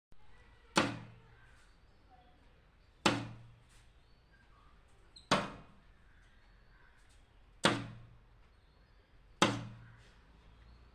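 A bird striking its beak hard against its own reflection: five sharp single knocks spaced about two seconds apart, each with a short ringing fade.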